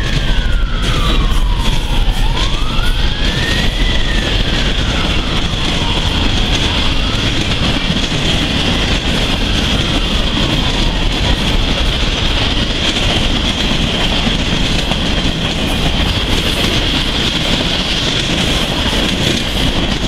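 Norfolk Southern mixed freight train's cars rolling past, wheels clattering steadily on the rails. A siren wails up and down in the background for the first several seconds, then fades out.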